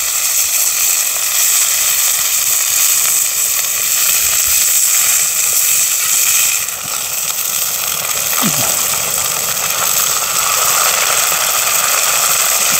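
Battered sea bass pieces deep-frying in hot oil: a steady loud sizzle.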